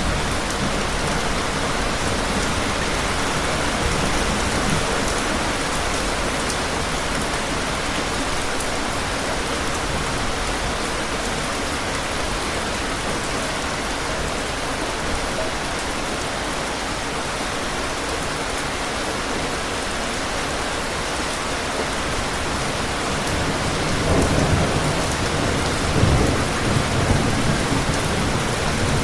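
Steady rain falling, an even hiss, with a low rumble of thunder near the end.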